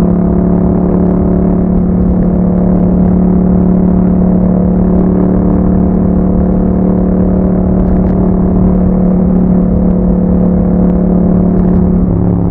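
Yamaha MT-07's parallel-twin engine running through an Akrapovic exhaust at steady revs, a constant even drone that holds one pitch.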